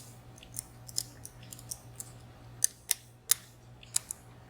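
A Peterson Gem hook pick, used as a dimple pick, worked back and forth against the pins of a 14-pin VSR dimple lock under tension while searching for binding pins. It makes light, irregular metal clicks, about seven in all, over a faint steady low hum.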